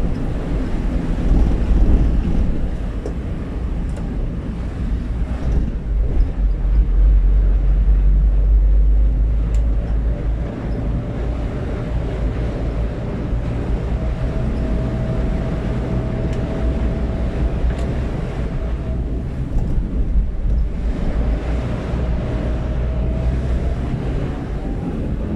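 Wind buffeting the microphone, a steady low rumble, with a faint thin whine that comes in partway through and slowly rises in pitch.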